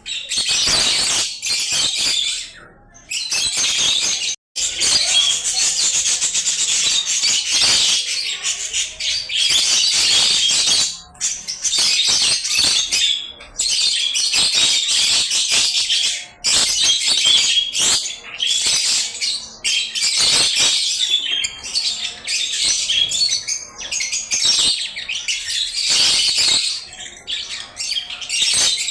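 A group of lovebirds chattering and squawking, dense and high-pitched, almost without pause, broken by a few short gaps, one of them a sudden cut to silence about four and a half seconds in.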